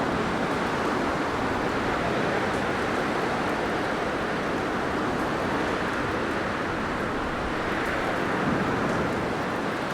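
Blizzard wind blowing steadily, a dense rushing noise that swells and eases only slightly.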